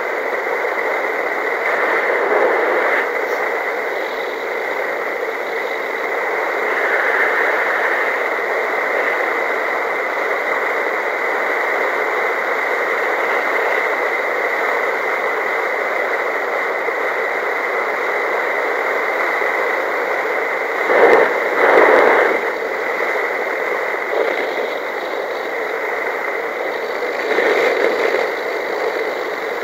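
Steady rush of airflow over the microphone of an unpowered paramotor in a glide, with no engine note. A few louder gusts, the strongest about twenty-one seconds in.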